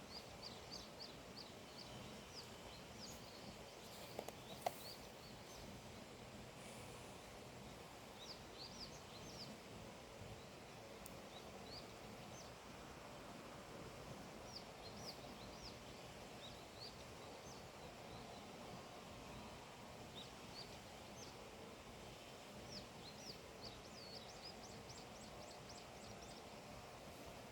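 Faint outdoor morning ambience: a steady low hiss with small birds chirping in short quick series now and then. A few sharp clicks or taps about four to five seconds in.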